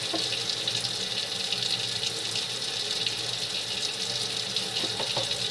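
Kitchen tap running steadily into a sink, with a couple of faint knocks near the end as a plastic part is handled under the stream.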